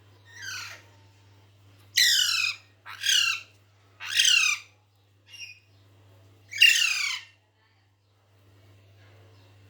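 Pet parrot giving a series of loud, harsh squawks, each call sliding down in pitch, about five in all with short gaps between.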